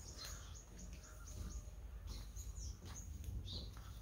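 Birds chirping in the early morning, many short high calls scattered throughout, over a low steady rumble.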